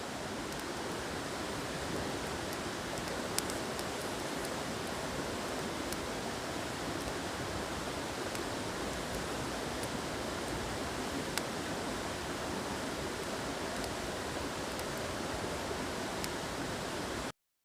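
Small wood campfire burning: a steady rushing hiss with a few faint, sharp crackles every few seconds. It cuts off abruptly near the end.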